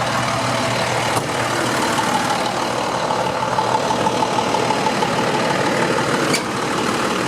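International DT466 inline-six diesel engine of a 2007 International 4300 box truck idling steadily. A thin whine sits over it from about two seconds in to about six seconds, and two short clicks come about a second in and near the end.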